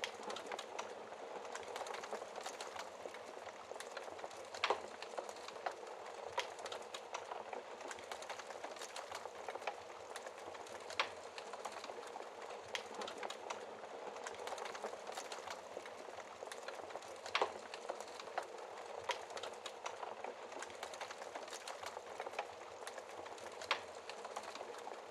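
Wood fire crackling in a fireplace: a steady hiss with many small crackles and a few louder sharp pops, about one every six seconds.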